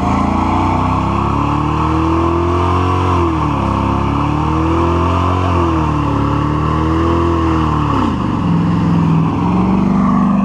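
Truck engine revving hard during a burnout, its pitch climbing and falling several times, with sharp dips about three and a half and eight seconds in.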